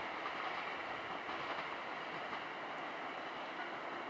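PKP class EN57 electric multiple unit running along a curve, a steady noise of wheels on rails with a few faint clicks.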